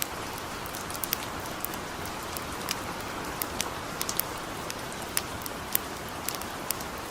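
Steady gentle rain hiss with scattered, irregular sharp crackles from a wood campfire, about two a second.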